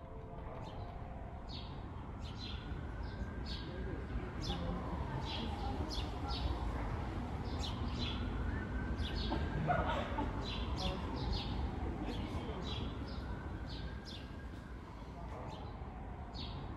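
Small birds chirping in many short, high calls over a low, steady outdoor rumble.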